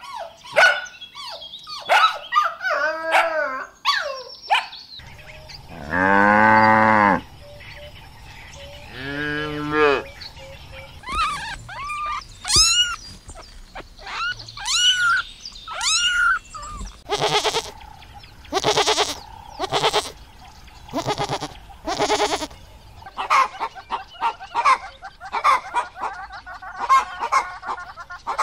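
A run of animal calls one after another. Puppies yelp and whimper at first, then come two long drawn-out calls. Kittens meow in rising-and-falling cries around the middle, followed by a series of broader calls, and farmyard fowl call busily near the end.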